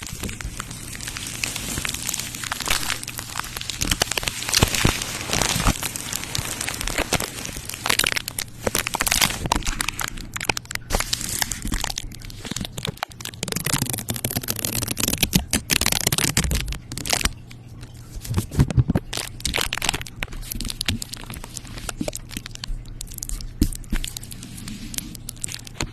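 ASMR crinkling and crackling made close to the microphone: dense, irregular crackles and rustles with sharper cracks here and there, over a faint steady hum.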